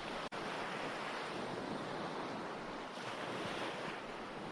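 Recorded ocean waves washing on a shore: a steady surf hiss, which cuts out for an instant a fraction of a second in.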